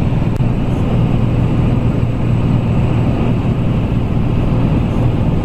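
Steady drone of a Socata TB20's six-cylinder piston engine and propeller in cruise, heard from inside the cabin.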